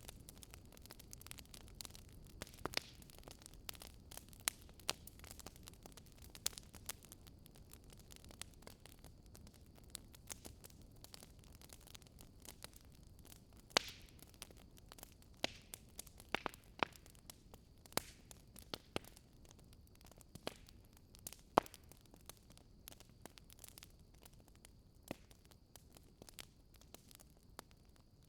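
Wood bonfire crackling and popping: irregular sharp snaps over a soft low rush of burning, with a few louder pops now and then.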